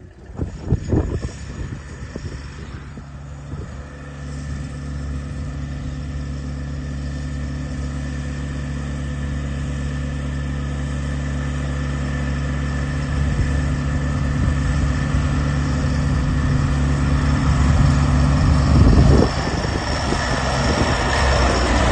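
Big farm tractor's engine running steadily and growing gradually louder, with a few knocks in the first couple of seconds.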